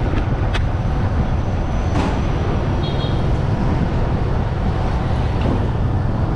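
Steady rumble of riding a motorcycle through city traffic, engine and road noise strongest at the low end, with a couple of short clicks and a brief high tone about three seconds in.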